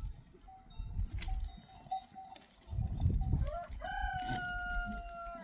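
A rooster crowing: the call rises into one long held note that sags slightly in pitch, lasting about a second and a half near the end. Low rumbling bursts come and go underneath.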